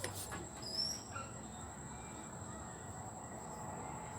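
Quiet background with a steady high-pitched insect trill, a few light clicks near the start and a brief rising chirp about half a second in.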